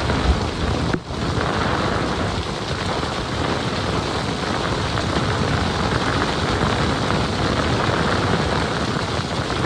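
Heavy rain falling steadily in a thunderstorm, with thunder rumbling low underneath.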